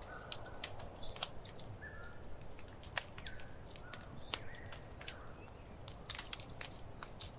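Wood fire crackling: an irregular run of sharp pops and snaps, several a second, over a low hiss, with a few short, faint, falling whistle-like tones in between.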